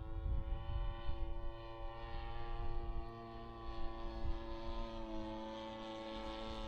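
Radio-control Piper Cub's G26 gas engine turning an 18x8 propeller, droning at a steady pitch with many overtones as the model flies. Wind rumbles on the microphone in the first couple of seconds.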